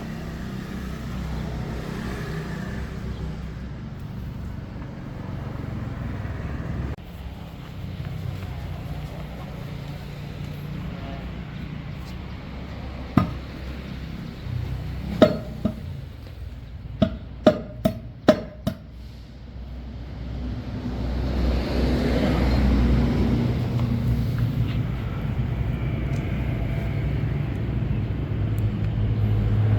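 Truck engine running steadily, with a quick run of sharp metallic clanks about halfway through; the engine gets louder in the last third.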